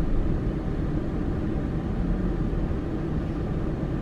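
Steady low rumble of a car driving along, its road and engine noise even throughout.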